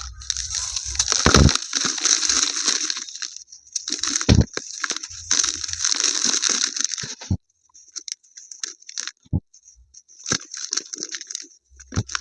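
Dry, crunchy diya-shaped pieces of dried paste being crushed and crumbled, a gritty crackling that comes in long runs, thins to scattered crackles after about seven seconds and picks up again near the end, with a few sharp low knocks as pieces break or are pressed down.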